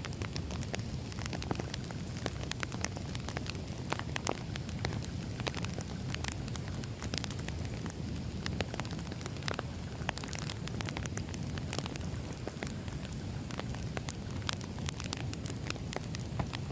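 Wood fire crackling: a steady low rumble of flames with irregular sharp pops and snaps from the burning logs, several a second.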